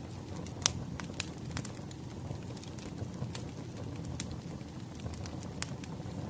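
Wood fire crackling: irregular sharp pops and snaps over a steady low rumble of burning logs, the loudest pop about a second in.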